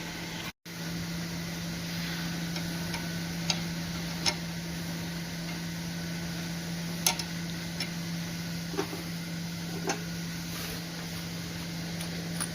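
A steady low hum with scattered light clicks and taps, about six in all, between a few seconds in and near the end.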